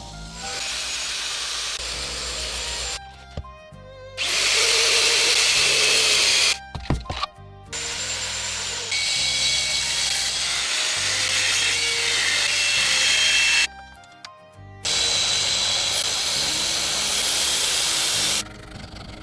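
An electric power tool runs in four bursts of a few seconds each, with short pauses between, over background music.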